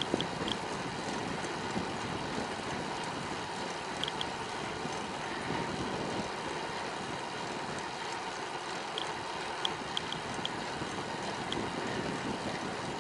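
Steady rushing noise of riding a bicycle: wind over the microphone mixed with tyre and road noise, with a few brief high ticks scattered through.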